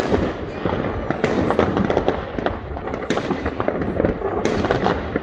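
Many fireworks going off at once, near and far: a steady mass of distant bangs and crackles, with sharper, louder bangs every second or two.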